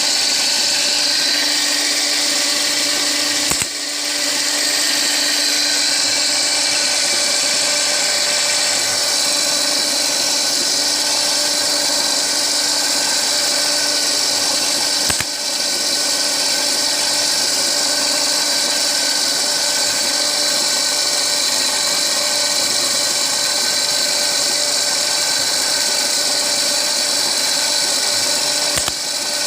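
Small electric motor of an automatic pill-rounding machine running steadily with a high whine. It dips briefly with a click three times.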